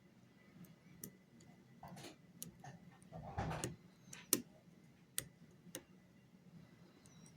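Lock picks working inside a pin-tumbler lock: scattered small metallic clicks, with a brief scratchy rasp about three and a half seconds in and the sharpest click just after.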